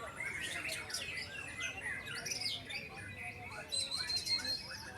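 Several white-rumped shamas (murai batu) singing at once, a dense tangle of overlapping rapid chirps, trills and whistled phrases. Near the end a single high whistle is held for about a second.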